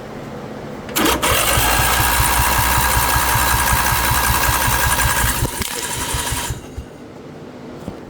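Lawn tractor engine cranking on its electric starter, with the starter solenoid jumped by hand, for about four and a half seconds with an even low pulsing and a steady whine, then slowing and stopping.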